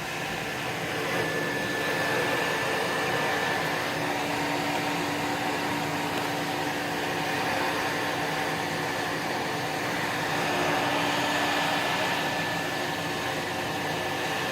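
Vacuum cleaner running steadily, a motor hum with a high whine over it.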